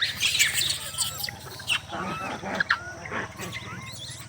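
Animal calls: harsh noisy cries through the first second, then shorter sharp calls and squeals.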